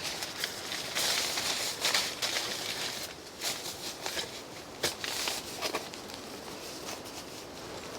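Bedding and gear being handled and laid out: irregular rustling in bursts, with scattered sharp clicks and knocks.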